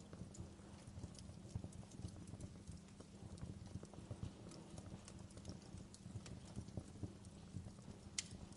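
Wood fire crackling: a steady low rumble with irregular small snaps and pops, and one sharper pop near the end.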